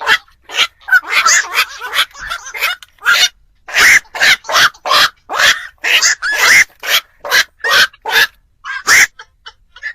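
Black-crowned night herons giving harsh croaking calls in quick succession, roughly two a second, a lure-call recording for trapping night herons.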